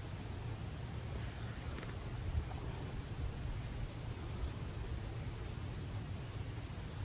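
Faint insects trilling: a steady high-pitched buzz, joined about three seconds in by a very high, rapid pulsing, over a low steady rumble.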